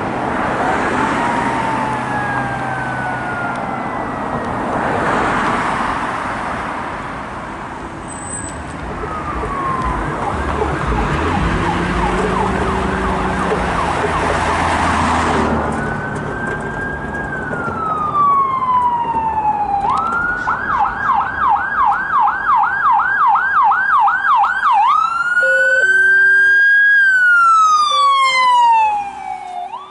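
Emergency vehicle sirens on responding apparatus. They wail with slow rising and falling sweeps, and a heavy vehicle's engine rumbles past midway. Near the end a siren switches to a fast yelp of about two sweeps a second, then to a loud wail that rises quickly and falls slowly before stopping.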